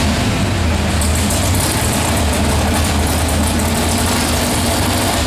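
Pulling truck's engine running loud and steady under load during a pull, with a heavy low drone.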